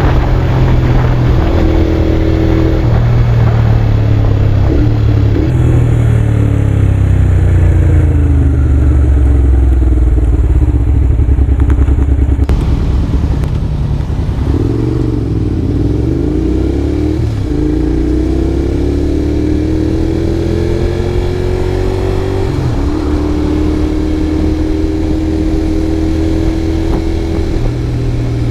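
Honda VTR250's V-twin engine running through a WR'S full exhaust system with carbon silencer while the bike is ridden: the engine note rises and falls with throttle and gear changes, then climbs in a long steady pull through the last ten seconds or so.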